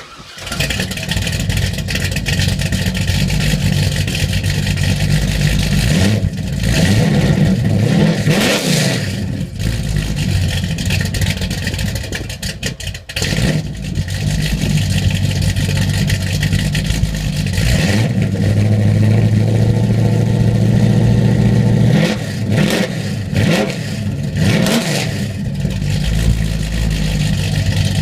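A 1979 Chevrolet Camaro's engine fires up on a cold start and runs, revved up and down a few times in the middle and again near the end.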